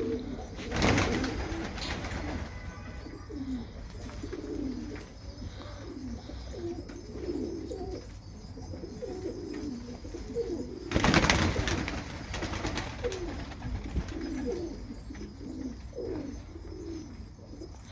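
Domestic pigeons cooing in a loft, many short low coos overlapping one after another. There are two brief loud rustling bursts, one about a second in and one about eleven seconds in.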